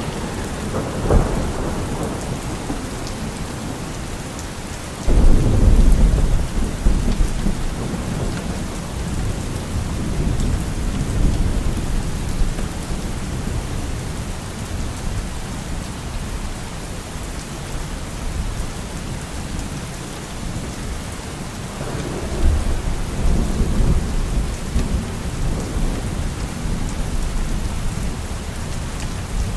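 Steady rain falling, with rolls of thunder: a short rumble about a second in, a loud one breaking suddenly about five seconds in and dying away over several seconds, and another near the end.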